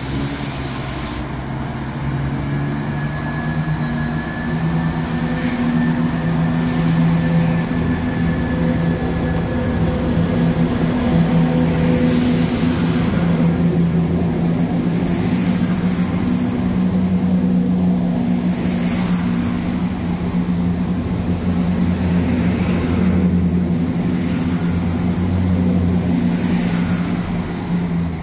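Diesel train at a station with its engine running steadily, a low drone with several even tones. In the second half there are short high-pitched bursts every few seconds.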